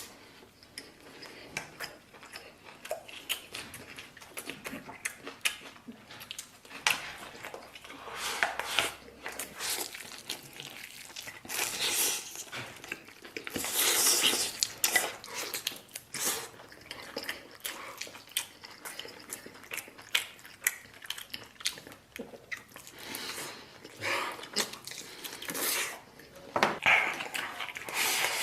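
A person eating close to the microphone: repeated chewing and biting sounds with small clicks of utensils against a bowl.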